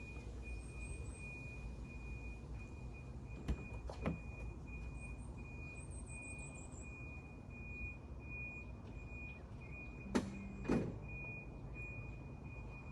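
Outdoor ambience: a steady low rumble with a high electronic beep repeating at an even pace, small birds chirping, and two pairs of sharp knocks, one about three and a half seconds in and one about ten seconds in.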